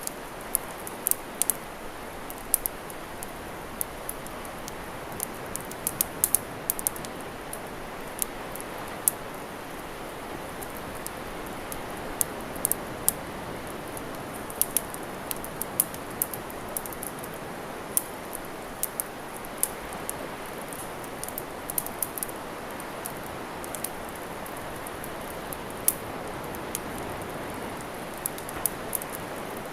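Campfire of burning wood crackling, with many sharp irregular pops and snaps, over the steady wash of sea waves.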